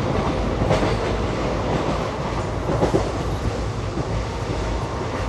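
Passenger express train running along the track, heard from on board: a steady rumble of wheels on rail with a few faint clicks.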